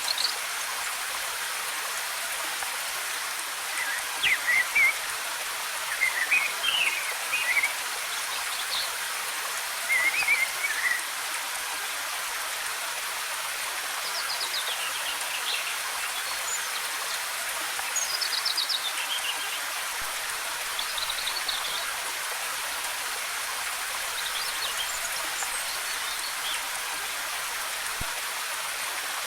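Steady hiss of falling water from a waterfall, with songbirds singing short, twittering phrases over it several times.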